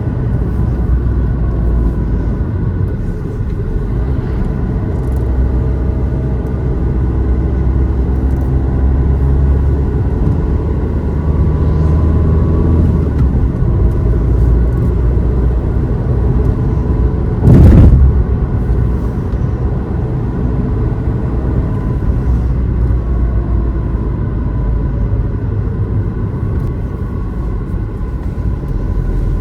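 Car driving along a road: steady low engine and road rumble, with one brief loud burst of noise a little past halfway.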